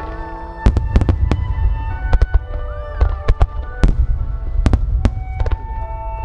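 Rapid volley of aerial firework shells bursting: a string of sharp booms, several a second at times, over a continuous low rumble. Music with long held notes plays underneath.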